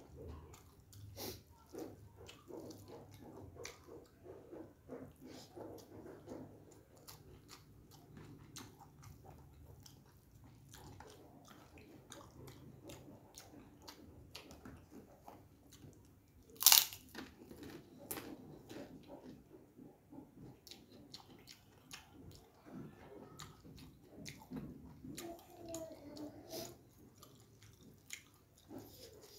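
Close-up eating sounds: chewing, lip smacks and crunching of kerupuk crackers as a mouthful of rice and offal is eaten by hand, with one much louder sharp crack about halfway through.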